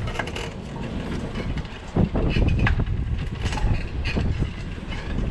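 Bicycle rattling and rumbling over a rough street, with irregular clattering that grows louder about two seconds in.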